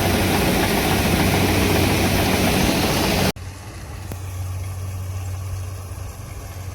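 Farm machinery engine running loud under a dense rushing noise. About three seconds in, an abrupt cut leaves a quieter, steady low engine hum.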